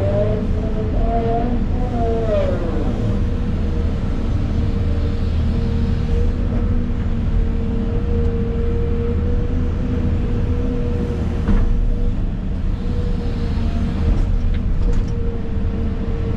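Excavator's diesel engine running steadily under load, with a constant whine over the low rumble. In the first few seconds a higher whine rises and falls as the machine works, and a few short knocks come later on.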